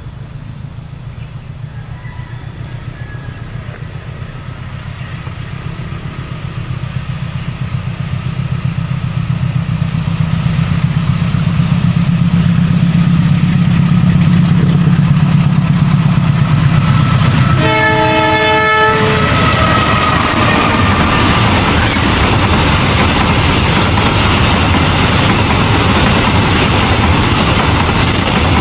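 A GE diesel-electric locomotive approaching, its engine drone growing steadily louder, sounds its horn once for about a second and a half. Then the train passes close by with loud, steady wheel-on-rail noise.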